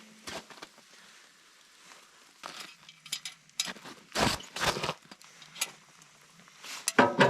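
Irregular short crunches and clicks, about a dozen spread through the stretch with quiet gaps between them, like gear being handled or steps in snow. Music comes in near the end.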